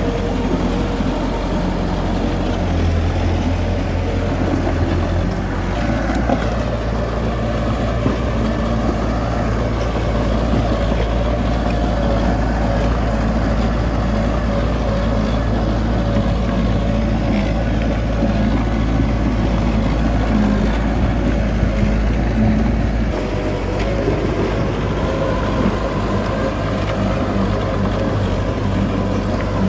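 Heavy diesel engine of construction machinery running steadily under load, its low note changing about six seconds in and again near the end.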